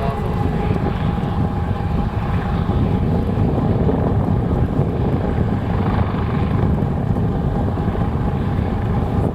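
Chartered fishing boat's engine running steadily, a loud low rumble with a faint steady whine, mixed with wind on the microphone.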